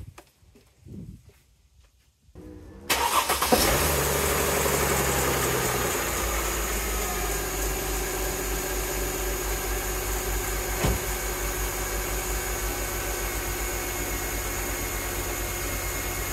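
Mercedes-Benz M272 V6 engine starting suddenly about three seconds in, running briefly at a raised idle, then settling into a steady idle. It is the first run after a fresh PCV breather system replacement, with no check engine light.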